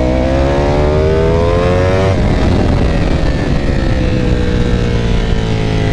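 Ducati Panigale V4's V4 engine pulling hard, its pitch climbing for about two seconds. It then cuts off abruptly and winds down slowly as the throttle is closed and the bike slows.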